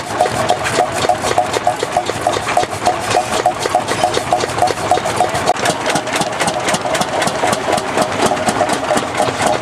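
Hot-bulb tractor engine running at a slow idle: an even, rapid train of sharp knocks, about five or six a second.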